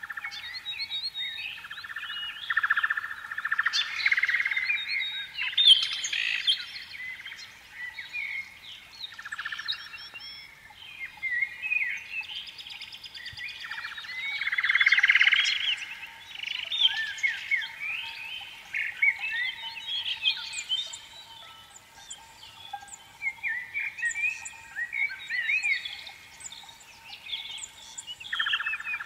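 Birds chirping and singing, many short calls overlapping in quick rising and falling notes, over a thin steady tone.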